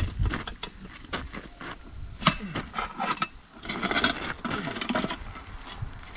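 Irregular metallic clinks and knocks of a lug wrench working on a car wheel's lug nuts, with a rougher stretch of scraping about four seconds in.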